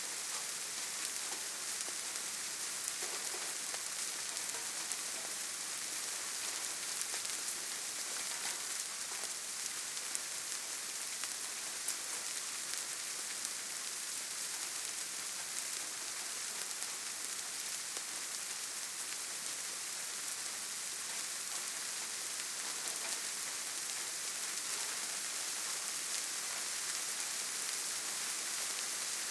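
Steady rainfall, a constant hiss with many fine, close-spaced drop patters.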